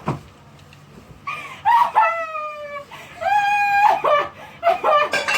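A single sharp bang, then a woman screams twice in long, high-pitched cries, the first falling in pitch and the second held. Near the end there is a clatter of knocks with shouting voices.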